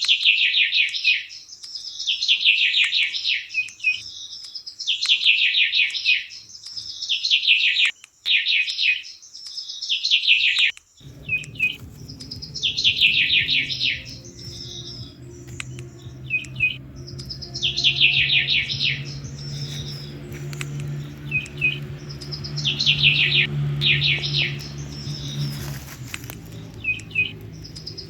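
A songbird repeating a short, falling, trilled song phrase about every two seconds. About eleven seconds in, a low steady hum comes in underneath and then fades near the end.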